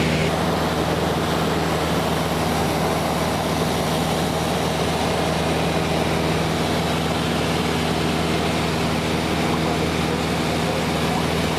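Cessna 172's piston engine and propeller, heard as a steady, unchanging drone with a low hum.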